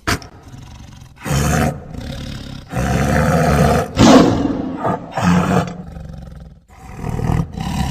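Tiger roaring in several loud bouts separated by short pauses. The longest bout lasts about a second and a half.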